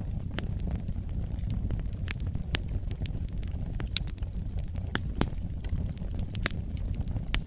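Wood campfire burning, crackling with frequent sharp pops scattered unevenly over a steady low rumble.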